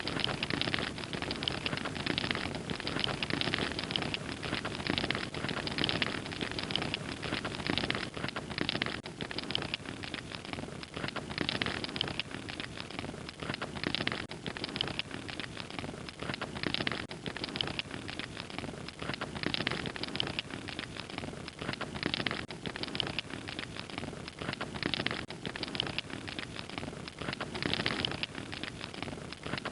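Wood fire crackling steadily, with a constant hiss and many small irregular pops and snaps.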